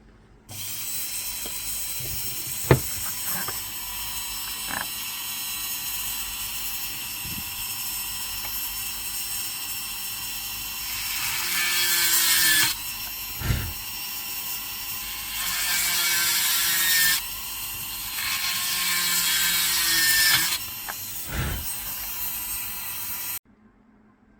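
Dental high-speed handpiece running with a steady high-pitched whine. It grows louder in three stretches in the second half as it cuts the tooth preparation for an amalgam filling, with a few sharp clicks of instruments.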